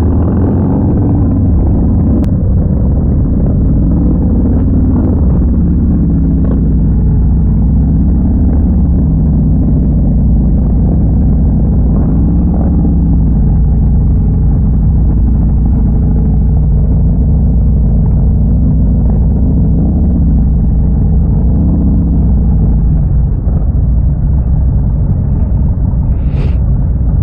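Harley-Davidson V-twin motorcycle engines and exhausts running on the move, a deep steady drone whose pitch rises and falls gently with the throttle.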